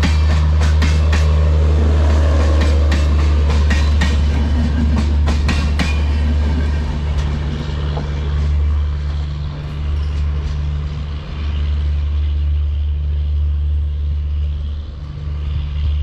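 Express train passenger coaches rolling past, their wheels clattering over rail joints in rapid clicks for the first six seconds or so, then fading as the train draws away. A steady low rumble runs underneath throughout.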